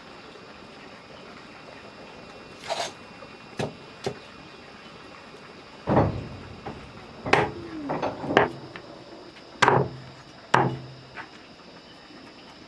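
Irregular knocks and thumps, about ten in all: a few light ones in the first half, then a denser run of louder knocks from about halfway, with a short creak among them.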